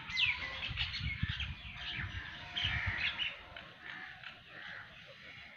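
Small birds chirping busily, with quick falling chirps one after another. Low dull bumps sit under them during the first three seconds.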